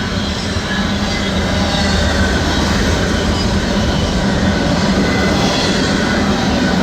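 Freight train passing close by: a steady, loud noise of wheels on the rails with a low hum underneath, getting a little louder over the first couple of seconds.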